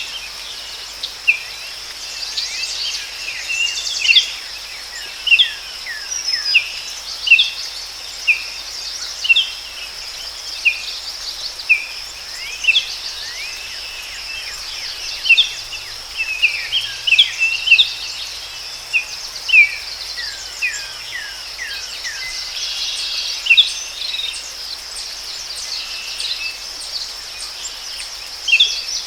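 Forest ambience: a steady, high-pitched insect chorus with birds calling over it in repeated short, falling chirps.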